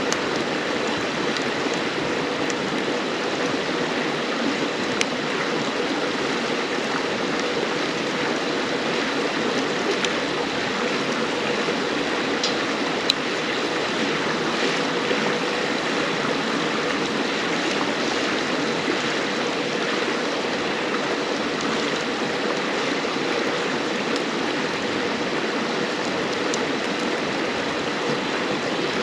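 A river flowing steadily, with a few sharp pops from a crackling wood fire, the loudest a little before halfway.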